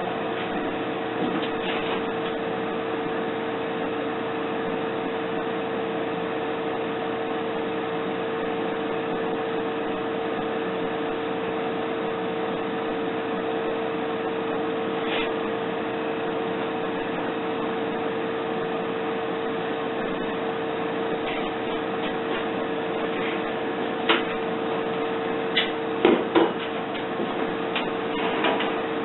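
A steady mechanical hum with one constant tone over an even noise, and a few sharp clicks and knocks in the last few seconds.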